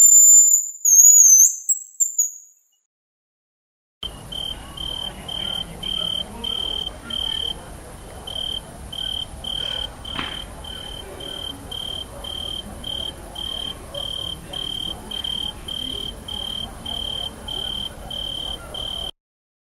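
Eurasian penduline tit's thin, high, wavering whistled call. After a short pause, a long even series of short chirps on one pitch, about two a second, over a steady high hiss.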